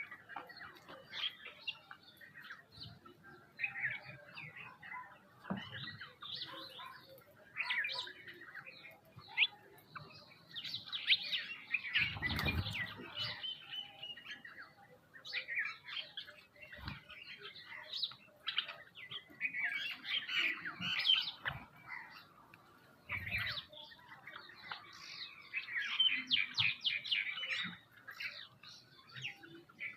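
Several small birds chirping in quick, overlapping calls throughout, with a louder, noisier burst about twelve seconds in and a few soft thumps.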